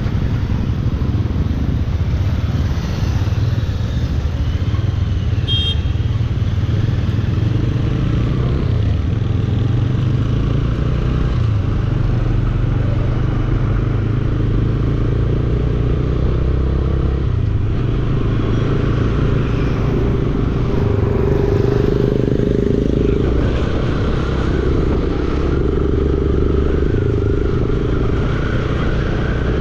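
Bajaj Dominar 400's single-cylinder engine running steadily while the motorcycle is ridden, with road noise. There is a brief high beep about five seconds in.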